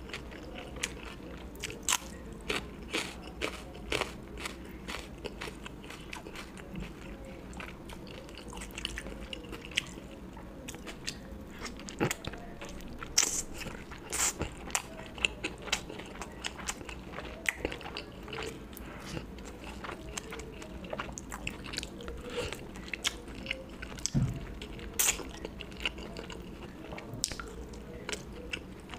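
Close-miked chewing and biting of a meal of curry and rice: irregular wet clicks, smacks and small crunches from the mouth, some much sharper than others.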